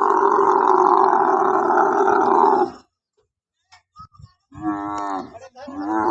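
Camel bellowing: one long, loud, rough groaning call lasting nearly three seconds, then after a short pause, shorter wavering moans near the end.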